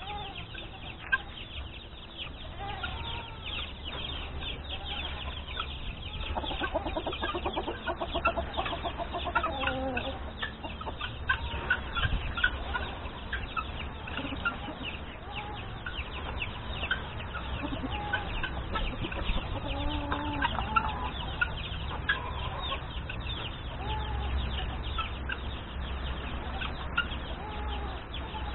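Chickens clucking, with short calls scattered through, over a constant chatter of many small birds chirping.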